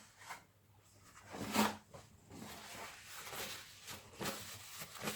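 Paint being wiped off hands: soft rubbing and rustling, loudest about one and a half seconds in, then a run of smaller rubbing strokes.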